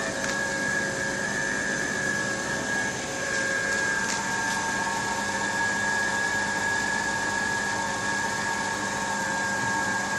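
Volvo engine idling after a cold start with a steady jet-like whistle over a hiss: the owner takes this for the first sign of a failing PCV oil trap (crankcase ventilation).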